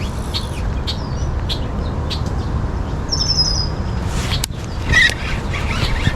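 Small birds chirping, with a quick falling series of chirps about three seconds in, over a steady low rumble; a single sharp click about four and a half seconds in.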